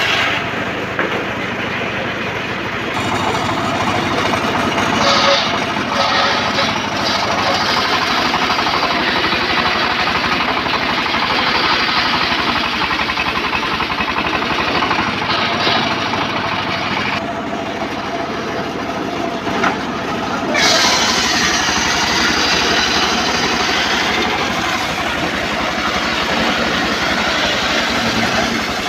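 Motorised saw cutting teak wood: a loud, continuous machine noise that changes in character about three seconds in and again about twenty seconds in.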